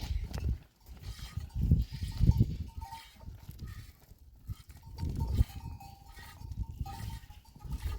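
A herd of goats with a bell ringing on and off in a thin tone, over irregular low rumbles.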